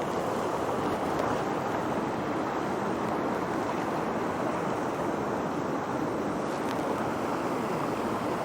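Steady rush of a fast mountain stream, its current running over rocks.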